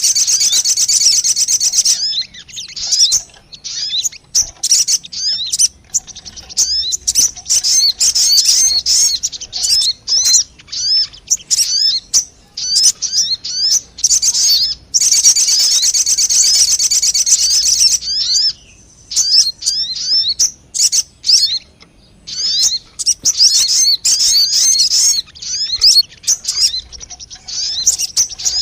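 Sogon bird lure recording: rapid, high, chattering twitters. There is a dense burst of fast trilling at the start and another about halfway through, with scattered short chirps and brief pauses in between.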